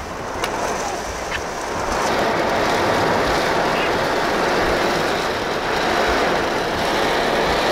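Heavy rain in a storm beating steadily on a car, heard from inside the cabin.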